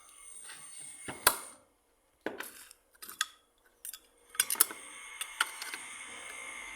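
Metal parts being handled: a series of sharp clicks and clinks, the loudest a knock about a second in, with short scraping between some of them.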